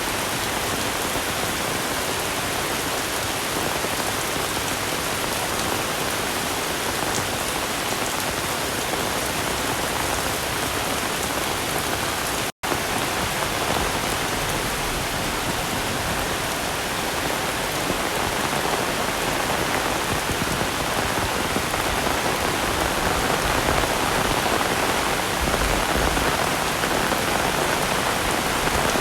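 Heavy rain falling steadily, a dense even hiss, interrupted once about halfway through by a split-second gap of silence.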